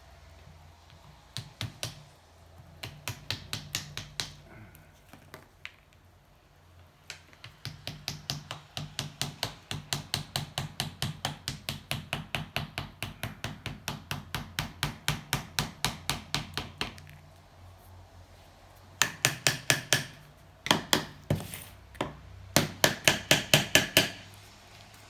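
Hammer driving wedges under the seized cylinder of a 1984 Honda C70 engine, in runs of quick blows about four a second. The longest run lasts about ten seconds, and the runs near the end are the loudest.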